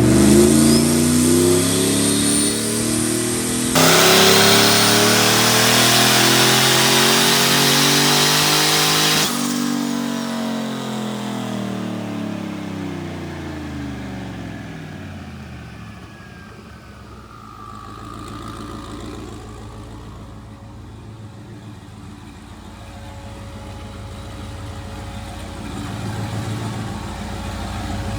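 Turbocharged V8 under hard acceleration, its pitch climbing, with a gear change about four seconds in and a loud rushing hiss from then on. About nine seconds in the throttle closes and the engine note falls away as the car slows and the sound dies down.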